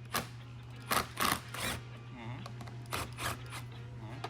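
A series of short scraping or rasping strokes, about seven, with a steady low hum underneath.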